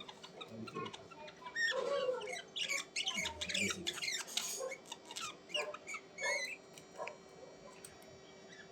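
Small birds chirping and squeaking in quick short calls, busiest in the first half and thinning out towards the end.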